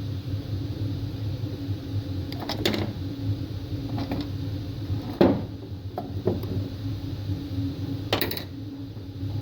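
A handful of separate metal knocks and clanks, the loudest about five seconds in, as tools work a smashed piston out of a small two-cylinder engine. A steady low hum runs underneath.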